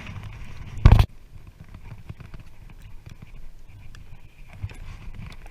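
A single loud knock about a second in, over faint rustling and small ticks while a fish is being handled at a kayak.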